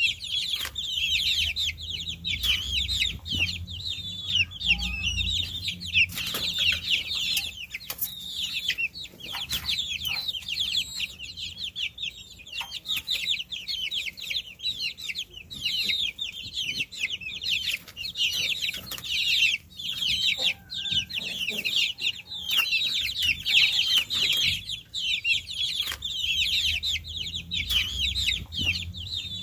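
A brood of baby chicks peeping together: many short, high chirps overlapping without a break.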